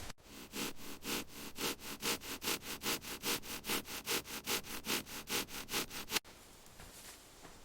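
A hand tool rasping in quick, even strokes, about four to five a second, starting and stopping abruptly.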